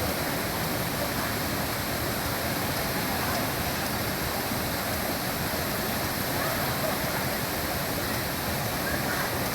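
Mountain stream water rushing with a steady, even sound.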